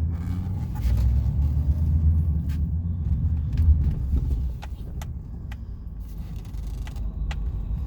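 Chevrolet Silverado 2500HD pickup driving over rough ground, a low rumble of engine and drivetrain just after being shifted out of four-wheel drive into two-wheel drive. The rumble eases off about four seconds in, with a few sharp clicks and rattles along the way.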